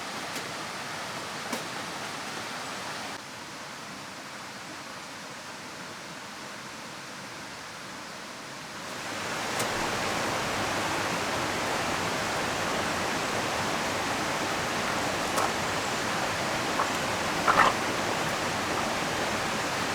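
Steady rushing ambience of a river and falling rain, which drops a little in level about three seconds in and swells back up about nine seconds in, with a few faint taps near the end.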